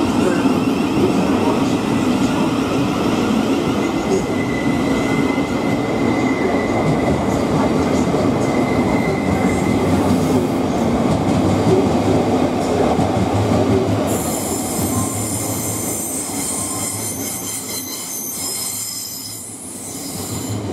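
Thameslink Class 700 electric multiple unit pulling out along the platform: a steady rumble of wheels and running gear, with a thin high squeal for several seconds in the middle. The sound fades near the end as the last coaches go by.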